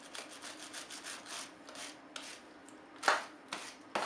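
Wire brush scrubbing a grimy motorcycle drive chain, in quick back-and-forth strokes of about four a second, then a few harder, separate strokes near the end.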